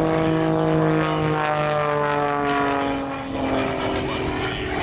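Pitts S-2B aerobatic biplane's piston engine and propeller running hard, the note falling steadily in pitch for about three seconds, then dipping and settling at a new pitch.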